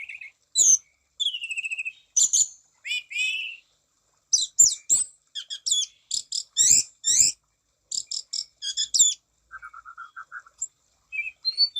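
Orange-banded thrush (anis cendana) singing a fast, varied song of short, sharp, high chirps and trills in quick phrases, with a brief buzzy rattle of lower notes near the end.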